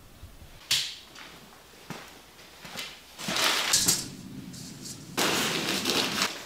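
A couple of sharp knocks, then two longer stretches of scraping noise, the kind that comes from hand work on a house under repair.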